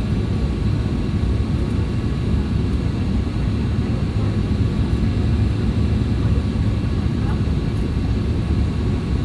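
Steady low rumble of a Boeing 737-800 airliner heard from inside the cabin, with no sudden changes.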